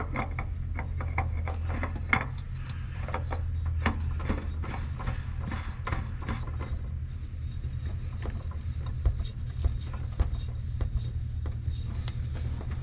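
Spin-on oil filter being screwed on by hand onto an aircraft engine: irregular rubbing and light scraping clicks as it is turned on its threads, over a steady low hum.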